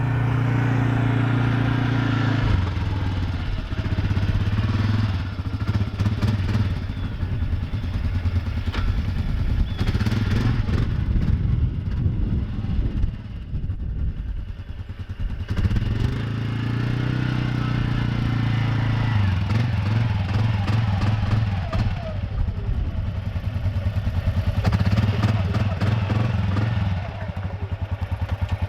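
Can-Am ATV engine running while being driven, its engine speed rising and falling several times as the throttle changes, with rattles and knocks from the machine.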